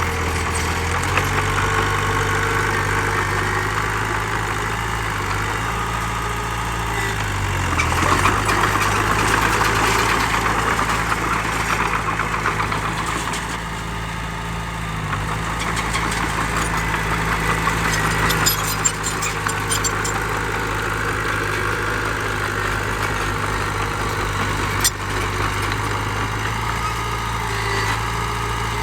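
Heavy diesel engine of earthmoving machinery running steadily, its pitch shifting slightly a few times as the load changes. A louder, rattling stretch comes about eight to twelve seconds in, with a couple of sharp clicks later.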